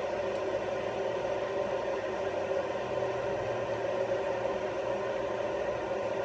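Kitfort KT-6121 electric kettle heating water: a steady rushing hiss with a faint hum underneath.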